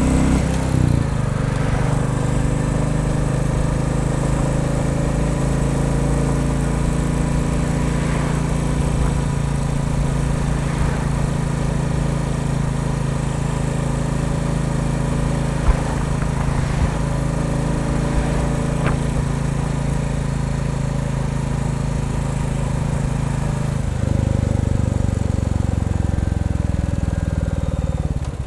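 Royal Enfield Bullet 350 single-cylinder engine running at fairly steady revs, its note changing about 24 seconds in.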